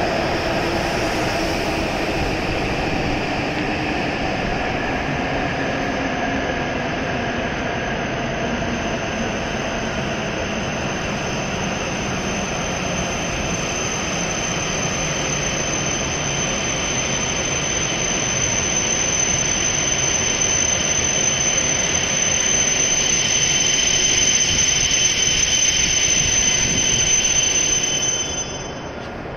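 W7 series Shinkansen train decelerating to a stop: its motor whine falls in pitch over the first few seconds under the running noise, then a high, steady brake squeal builds over the last ten seconds and cuts off suddenly as the train halts near the end.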